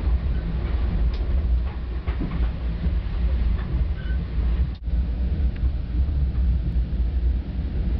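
Steady low rumble of a moving passenger train heard from inside the car, with faint clicks and rattles. The sound drops out for an instant about halfway through.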